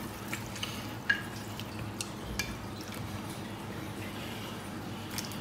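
Chicken feet sliding from one ceramic bowl into a larger bowl of soy-and-vinegar marinade, pushed along with chopsticks: soft wet slops with a few light clicks of chopsticks and bowl rims knocking, the sharpest about a second in.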